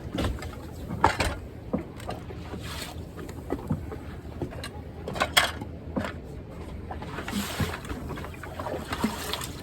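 Water splashing and slapping around a sailing yacht, with irregular knocks and clunks now and then.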